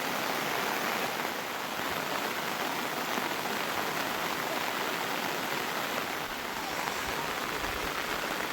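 Heavy monsoon rain falling steadily: a dense, even hiss of rain on surfaces.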